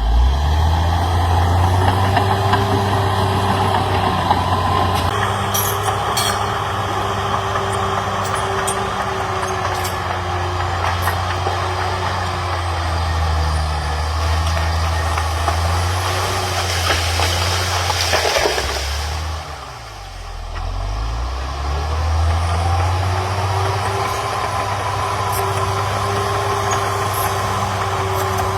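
CAT D6R XL bulldozer's diesel engine running steadily. About two-thirds of the way through its pitch sags for a couple of seconds, then picks back up, with a short burst of rushing noise just before the sag.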